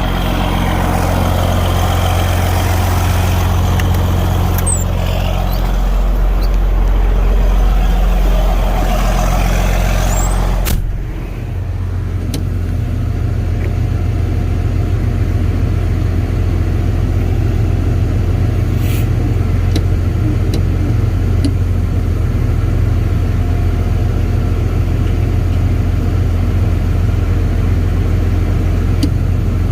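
Farm tractor engine running steadily while towing a cultivator. About eleven seconds in the engine note dips briefly and changes, then runs on steady.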